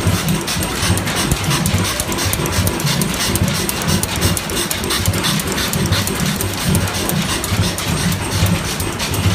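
Large antique stationary engines running steadily, with a low beat repeating a few times a second and a fast clatter of valve gear and machinery over it.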